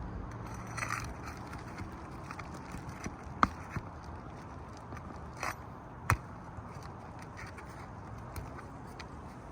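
Pry bar working under asphalt roof shingles to pull out roofing nails: soft scraping with two sharp clicks, the first about three and a half seconds in and the loudest, the second about six seconds in.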